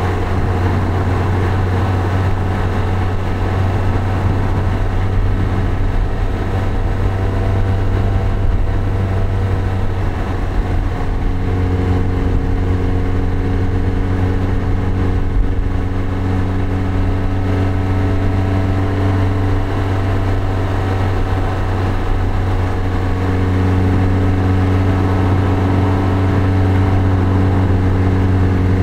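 Lotus Elise engine running steadily while the car cruises, heard from the open cockpit with road and wind noise. The engine note shifts slightly twice, about a third and two-thirds of the way through.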